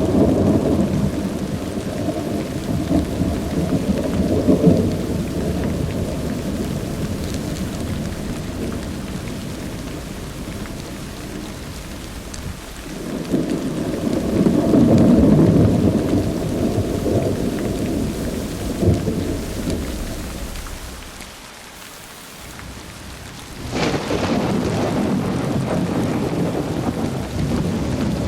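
Thunder rumbling in long, deep rolls over steady rain. It fades to a lull, then breaks in again suddenly and loudly near the end.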